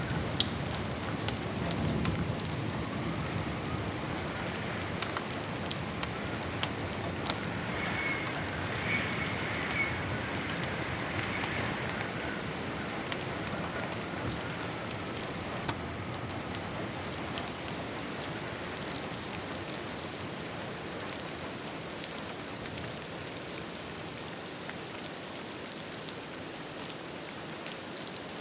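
Steady rain, with scattered sharp crackles of a wood fire on top. A low rumble of distant thunder fades out in the first few seconds, and the whole gradually grows a little quieter.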